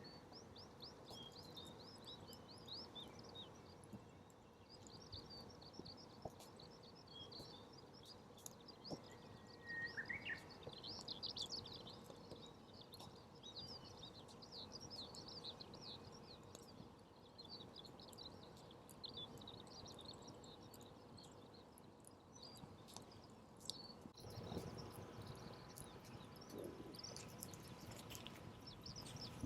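Small birds twittering in rapid, faint chirps over a quiet outdoor background, with a few soft clicks.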